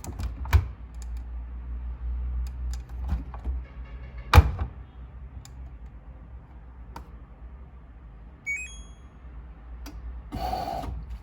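Clicks and a sharp knock from handling an LG front-load washing machine, then a quick run of short electronic beeps from its control panel as the cycle is set, and a brief rushing sound near the end.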